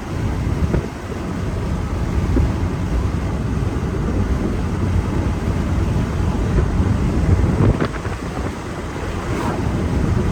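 Strong wind buffeting the microphone: a steady, loud low rumble that eases briefly near the end.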